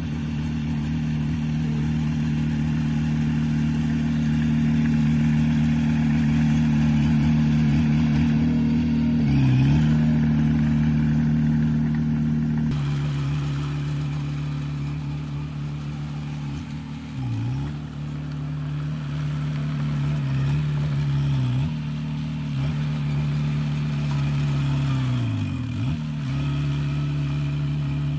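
Heavy diesel engine of earthmoving machinery running steadily under load. Its pitch dips briefly and picks back up several times.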